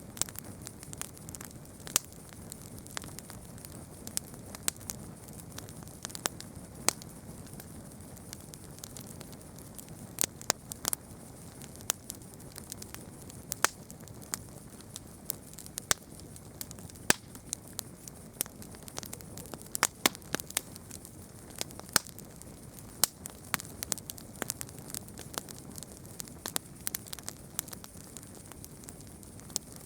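Wood campfire crackling: sharp, irregular pops and snaps over a steady low hiss of burning.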